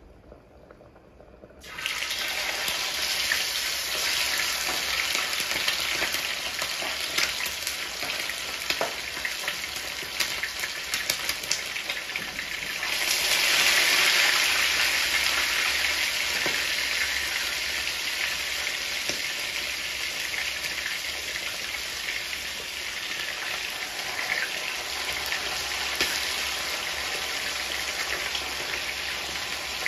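Chicken pieces frying in hot oil in a nonstick frying pan: a sizzle with crackling and spitting starts suddenly about two seconds in as the chicken goes into the oil. It swells louder near the middle, then settles back.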